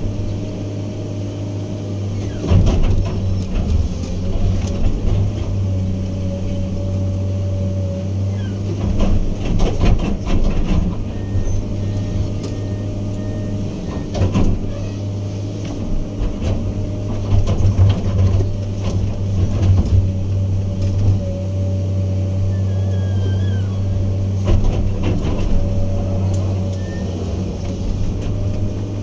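Heavy diesel engine of earthmoving equipment (an excavator or bulldozer) running steadily, with scattered loud metallic clanks and knocks from the machine working.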